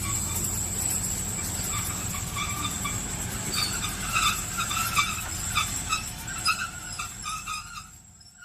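Model train running along the track: a steady motor hum and high whine, with clicking and short squeaks from the wheels in the second half, fading away near the end.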